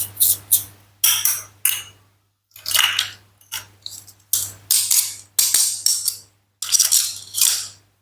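Toy fruits and vegetables being cut, with funny sound effects laid over the cuts: about a dozen short, bright, high sounds in quick succession, each under a second, with brief gaps between them.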